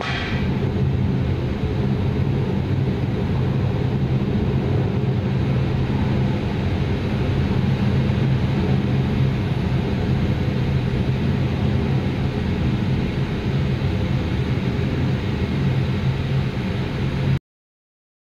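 Soyuz rocket engines in ascent: a steady, deep, rumbling roar that cuts off abruptly near the end.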